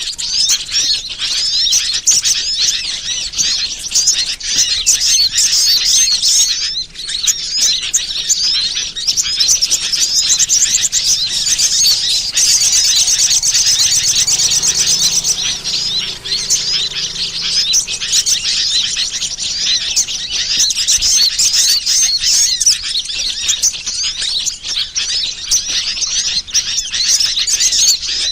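Dense, continuous high-pitched chirping and twittering of many small birds, played as a bird-lure call recording, with a stretch of fast, even trilling about halfway through.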